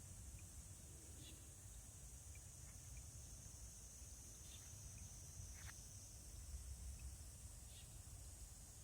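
Near silence: a faint, steady high-pitched insect chirring over a low rumble, with a few faint ticks.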